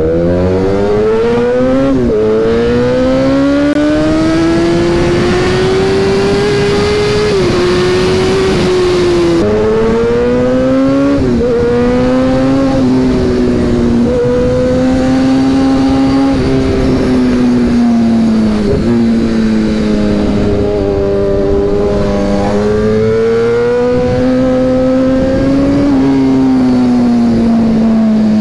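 Kawasaki ZX-10R inline-four sport-bike engine heard from the rider's seat, pulling hard through the gears. Its note climbs, breaks sharply at each gear change, then rises and falls with the throttle.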